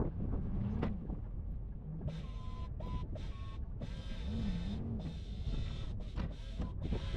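A plow truck's engine running with a steady low rumble, with wavering whining tones rising and falling over it.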